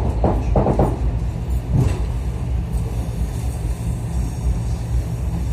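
Steady low rumble of a moving passenger train heard from inside the carriage, with a few short sounds in the first second.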